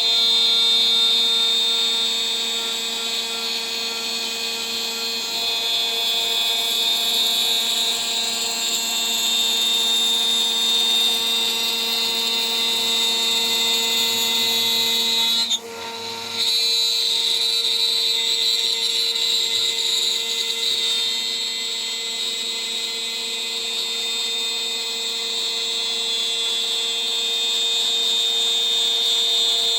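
CNC router spindle running at about 14000 RPM with a 3 mm three-flute end mill cutting, a steady high whine with cutting hiss. The sound drops out briefly about halfway through, then resumes.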